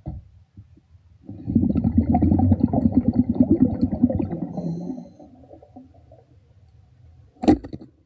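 A diver's exhaled breath bubbling out of the breathing regulator underwater: a rumbling, gurgling burst lasting about four seconds. A sharp knock follows near the end.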